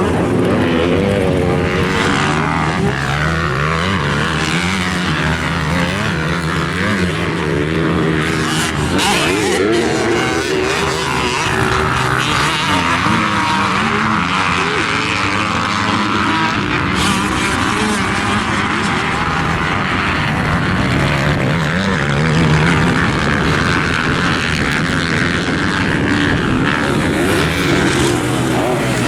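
250cc motocross dirt bike engine at race pace, its pitch climbing and dropping again and again as the throttle is opened and closed through jumps, turns and gear changes.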